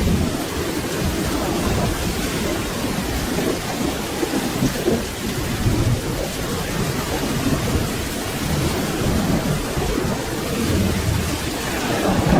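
Steady rain with low rolling thunder rumbling underneath, the rumble swelling slightly near the end.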